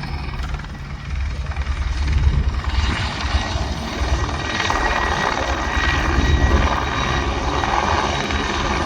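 Airbus Ecureuil helicopter running: rotor beat with a steady turbine whine, growing louder about two seconds in.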